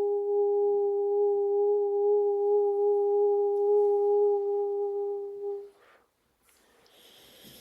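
One long held vocal tone, a hummed 'oo' sung almost pure, steady in pitch with a slight waver, fading out about three-quarters of the way through. A faint breathy hiss follows near the end.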